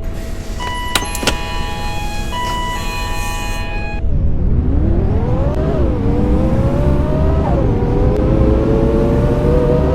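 A run of steady electronic beeps with a couple of clicks, then the Scania K230UB bus's engine pulls away. Its note rises, drops at two gear changes of the Voith automatic gearbox, and climbs again.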